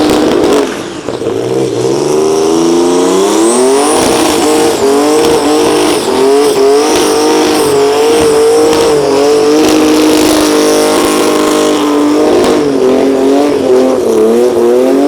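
A burnout car's 4-litre engine, boosted by a supercharger and twin turbos, held at high revs with its pitch wavering as the tyres spin. The revs dip sharply about a second in, then climb back and hang high again.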